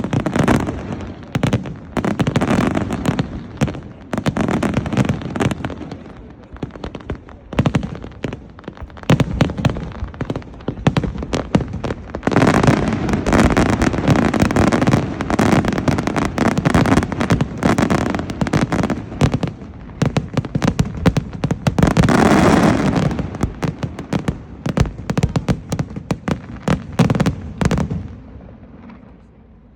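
Aerial fireworks going off in dense rapid barrages of bangs and crackles. The barrages are thickest about midway and again briefly later, then thin out and die away near the end.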